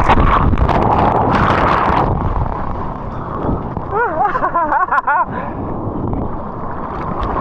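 Ocean surf: a big wave breaking and washing over with a loud rush for the first two seconds, then a lower wash of water, with wind buffeting the microphone. About four seconds in, a brief warbling, wavering voice-like sound cuts through.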